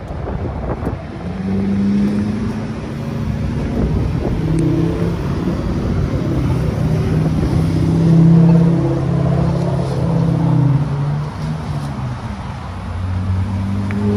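A car engine running, its pitch stepping up and down several times.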